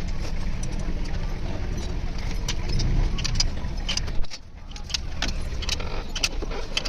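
Low steady rumble with many sharp metallic clinks and taps; everything drops away briefly about four seconds in, then resumes.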